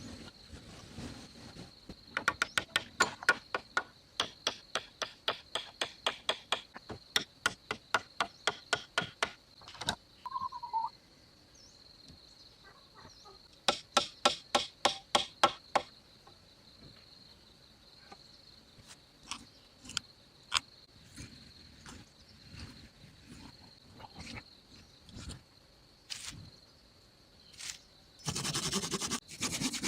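Hammering: runs of sharp, even blows at about four a second, a long run and a shorter one, then scattered single blows, over an insect's steady high buzz.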